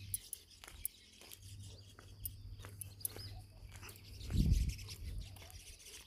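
Faint scattered bird chirps over a quiet background hum, with a short low rumble about four and a half seconds in.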